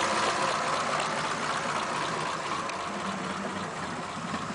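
1941 Ford pickup's flathead V8 idling, heard mainly as a steady rushing exhaust noise that slowly gets quieter.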